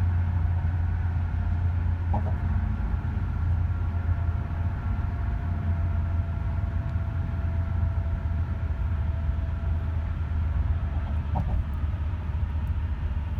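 Steady low rumble of a moving vehicle, with a faint steady hum above it and a couple of small clicks.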